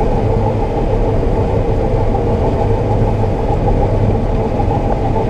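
Combine harvester running steadily while harvesting soybeans: a constant mechanical drone with a strong low hum.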